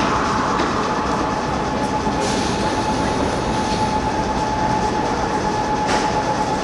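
Red Marunouchi Line subway train running steadily, its wheels and running gear giving a continuous noise with a steady whine. A single sharp click about six seconds in.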